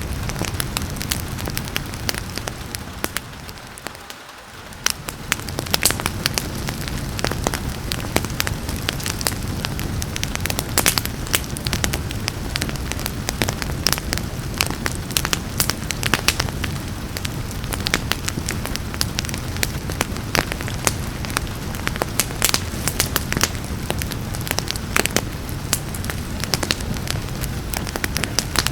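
Wood fire crackling and popping in a fireplace, with many sharp crackles over a steady hiss of rain. The whole sound briefly fades and swells back about four seconds in.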